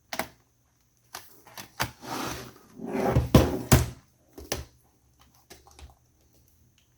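Laptop being handled and turned over on a hard surface: a string of knocks and clicks with a sliding scrape, loudest about three seconds in, then a few light taps.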